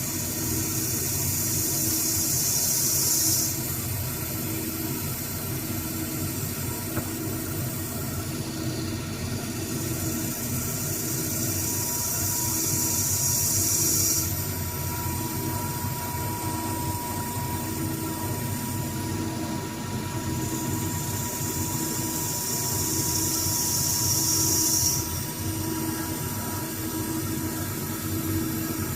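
CNC lathe running with a steady low hum that pulses about once a second. Three times a high hiss from the cutting pass builds and then stops abruptly as the tool finishes the pass.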